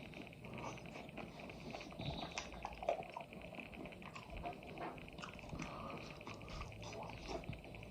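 Chewing and biting into chicken close to the microphone: irregular small wet clicks and smacks, fairly faint, over a steady light hiss.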